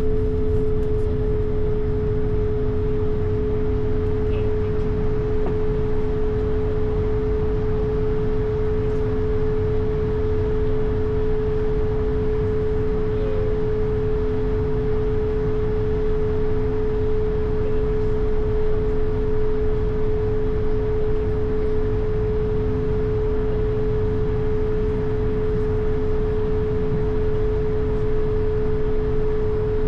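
Airbus A220 with its Pratt & Whitney geared turbofan engines, heard from inside the aircraft: a steady engine and airflow rumble with a constant hum.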